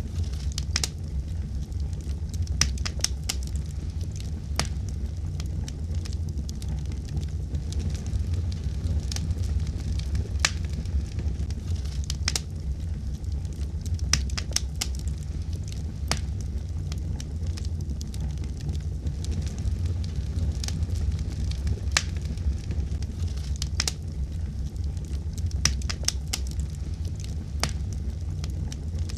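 Fire in a fireplace crackling: irregular sharp pops and snaps, several every few seconds, over a steady low rumble of the burning.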